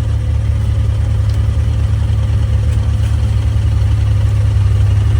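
Side-by-side UTV engine idling steadily and loud, close to the microphone.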